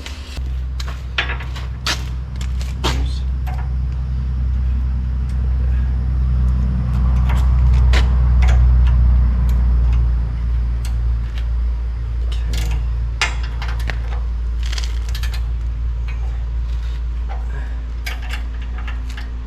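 Adjustable wrench clinking and tapping against steel bolts and the grapple frame as bolts are snugged down, in many short irregular clinks. Under it runs a steady low hum that swells for a few seconds in the middle.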